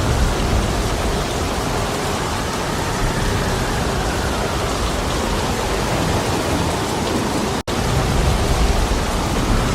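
Heavy rain with a steady dense hiss and a low rumble underneath, stronger near the start and near the end. The sound cuts out for an instant about three-quarters of the way through.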